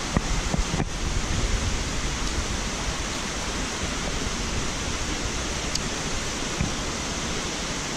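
Steady rush of water pouring down waterfall cascades, with a single click just under a second in.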